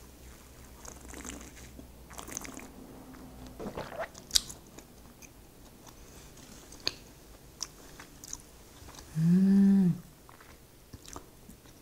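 Mouth noises of someone eating and tasting: quiet chewing with small clicks and smacks. Near the end comes a short, loud closed-mouth "mmm" hum that rises and falls in pitch.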